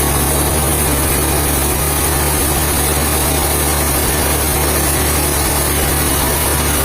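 A heavy engine running steadily at an even pitch and constant level, with a steady noise over it.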